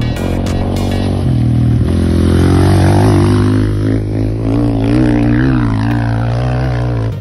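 Enduro dirt bike engine running and revving, its pitch rising and falling in short swells. The sound cuts off abruptly near the end.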